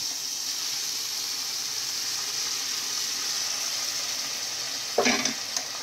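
Freshly added mixed vegetables sizzling steadily in a hot oiled pan, a stir-fry hiss. A brief louder clatter comes about five seconds in.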